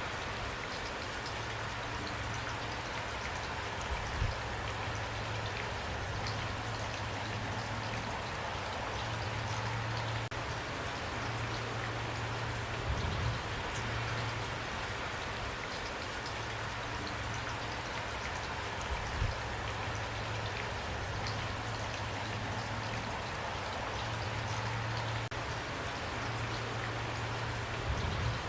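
Steady rain falling, a dense even patter of drops with fine ticks of individual drops, and a low rumble that swells and fades underneath with a few soft low thumps.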